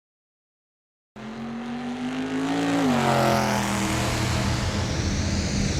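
Car engine accelerating: it cuts in suddenly about a second in, climbs in pitch, drops sharply about three seconds in as at a gear change, then runs on steadily at high revs.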